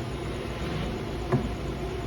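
2016 Toyota Sienna's V6 engine idling steadily, with a single short knock about two-thirds of the way through.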